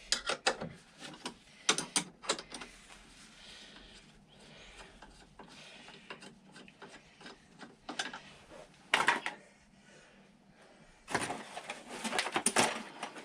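Ratchet spanner clicking in short bursts as a 13 mm nut is worked loose, with scattered metal clicks and knocks, the longest run of rapid ratcheting near the end.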